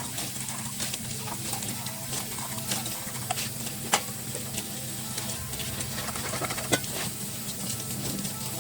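Kitchen clatter: dishes and utensils clinking and tapping lightly over a steady low hum, with two sharper clinks, one about four seconds in and one near seven seconds.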